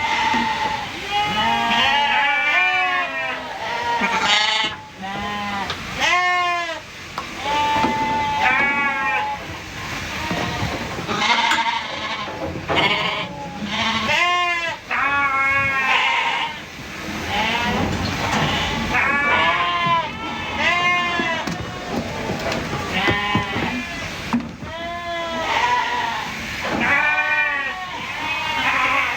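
Several sheep bleating over and over, the calls quavering and overlapping one another with hardly a break.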